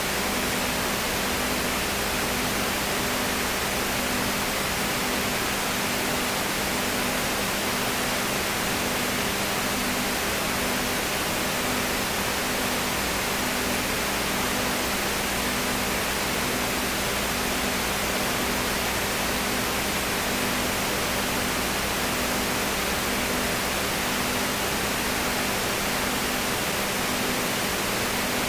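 Steady hiss with a low hum underneath and a faint tone that pulses about once a second.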